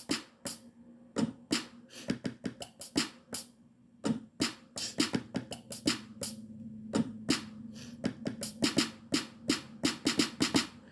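Drum sounds finger-tapped live on an Akai MPC One's pads with quantize off: a loose, irregular run of short, sharp percussive hits. A low steady hum comes in about four seconds in.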